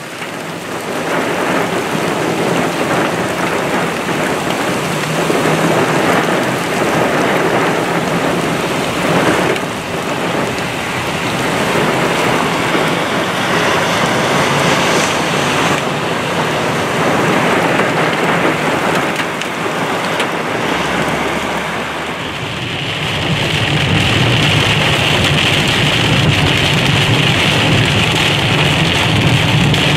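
Heavy thunderstorm rain pouring down, a steady hiss. About twenty seconds in, the sound changes to rain drumming on a car, heard from inside the car with a low hum under it.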